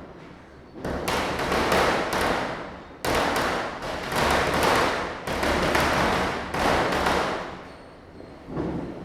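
Firecrackers going off in rapid, dense runs of loud cracks from about a second in, with two brief lulls, fading away near the end after one last short burst.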